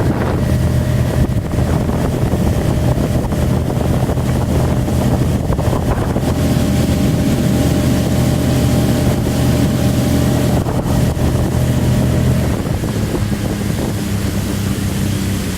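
A 25 hp Mercury outboard motor runs steadily at speed, pushing a 16-foot wooden boat, with wind and water rush over it. Near the end the engine note changes and gets a little quieter.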